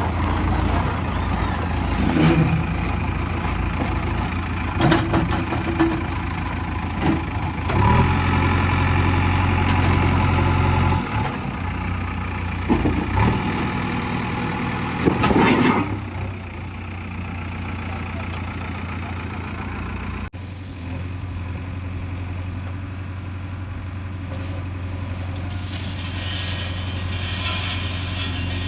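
Diesel engine of a JCB 3DX backhoe loader running and working, louder under load for a few seconds, with several sharp knocks and clatters. Well past halfway the sound cuts abruptly to a steadier, quieter engine idle.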